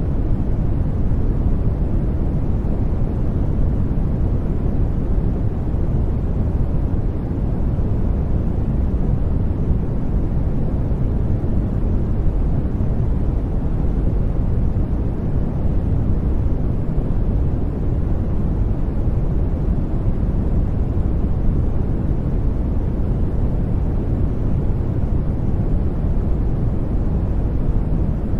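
Brown noise: a steady, even rumbling hiss, heaviest in the bass and falling off toward the treble, with no changes.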